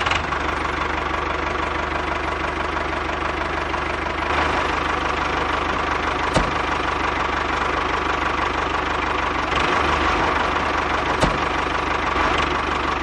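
The engine of a DIY mini tractor water-pump model running steadily with a fast, even knocking rattle. Two sharp clicks come about six and eleven seconds in.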